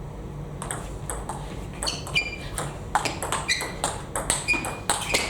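Table tennis rally: the ball clicking back and forth off the bats and the table, several hits a second, some with a short ringing ping. The rally starts about a second in.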